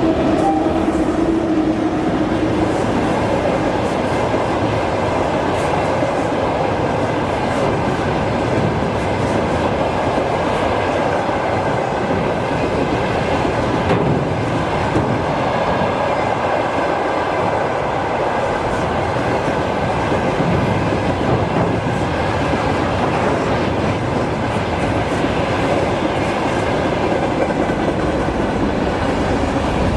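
Freight train rolling past close by: the wagons' wheels clatter over the rail joints in a continuous loud rush, with a faint steady hum that fades out in the first few seconds.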